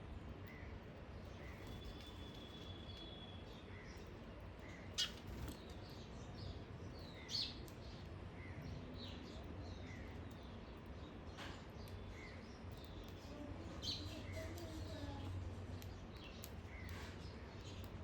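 Small garden birds chirping with short, repeated calls, and a few louder, sharper calls now and then, over a steady low background hum.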